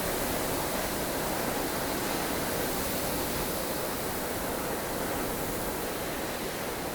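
Steady blustery wind of a snowstorm, an even rushing noise without gusts standing out.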